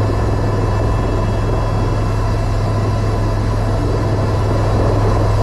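Eurocopter EC130 helicopter in flight, heard from inside the cabin: a loud, steady deep drone with faint steady whining tones above it.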